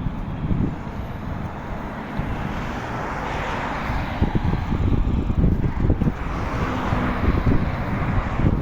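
Wind buffeting the microphone of a moving bicycle: a continuous gusty low rumble with a rushing hiss that swells about three seconds in.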